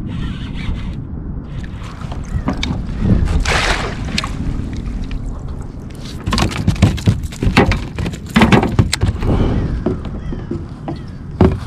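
Knocks and water sloshing around a fishing kayak over a steady low rumble. A short splash-like hiss comes about three and a half seconds in, and a run of knocks follows between about six and nine seconds.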